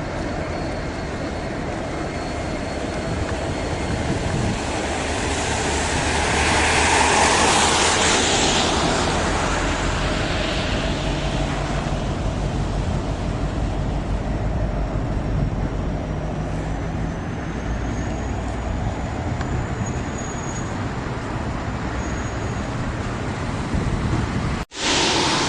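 CN container train passing, a steady rumble of wagons on the rails that swells louder about seven seconds in. A faint high tone drifts slightly upward in the middle, and the sound drops out sharply for an instant just before the end.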